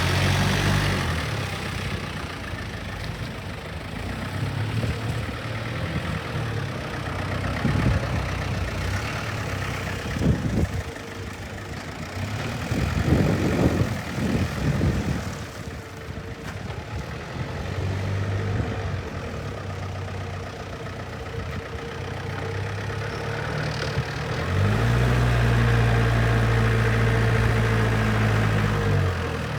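Yale GDP 2.5 diesel forklift engine running, mostly idling with its speed varying, with a few knocks and clatters about halfway through. Near the end it is held at higher revs for about five seconds, louder and steadier, then drops back.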